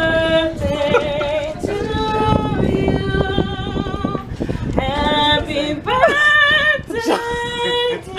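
A woman singing slowly, holding long notes with vibrato and sliding through runs.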